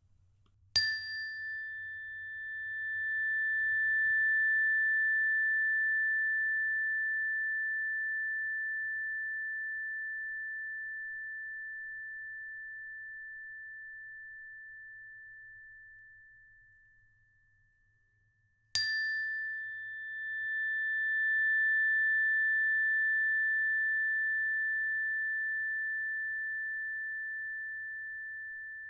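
A small high-pitched bell or chime struck twice, about a second in and again near the middle. Each strike rings on as one clear high tone that swells for a few seconds and then fades slowly over more than ten seconds.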